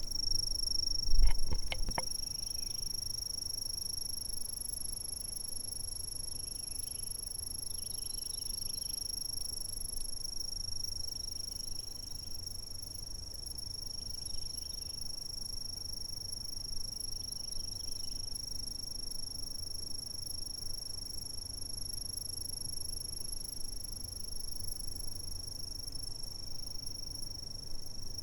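Insects chirping in a steady, unbroken high-pitched trill, with softer chirps coming in every couple of seconds. A few low thumps about a second in are the loudest sound.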